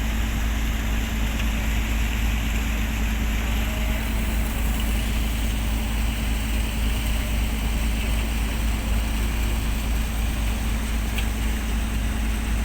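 Engine on a squid-fishing boat running steadily, a constant low rumble with a steady hum.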